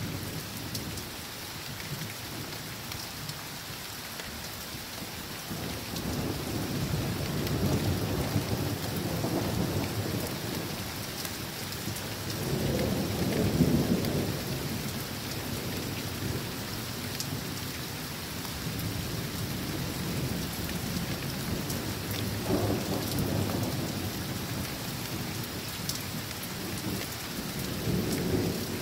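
Steady rain falling, with thunder rumbling four times in long low rolls; the loudest roll comes about halfway through.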